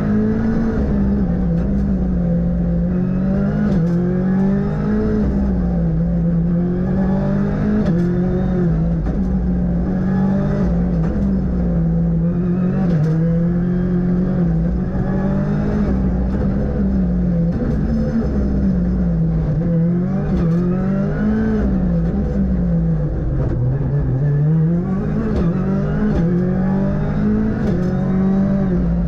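Ford Fiesta R5 rally car's turbocharged four-cylinder engine at full stage pace, heard from on board. The revs rise and fall over and over through acceleration and gear changes, with one deeper drop and climb about twenty-three seconds in.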